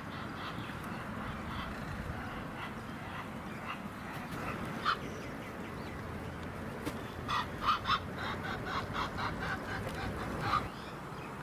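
A goose honking: one short honk, then a quick run of about ten honks near the end.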